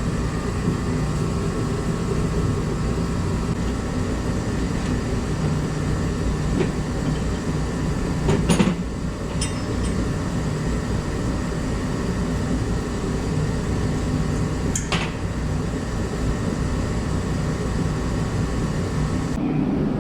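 Steady low droning rumble of shop background noise, with a few sharp clicks of tools or parts handled during tie rod work, about halfway through and again later.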